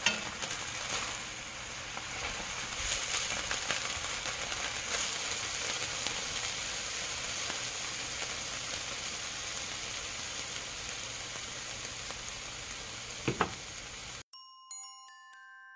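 Seasoned bracken (gosari) sizzling as it is stir-fried in oil in a pan, stirred with a wooden spatula, with two sharp knocks a little before the end. The sizzling cuts off suddenly and light glockenspiel-like music notes take over.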